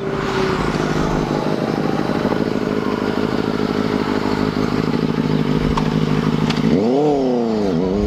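Superbike engine running steadily, then revving: the pitch climbs, sinks and climbs again near the end.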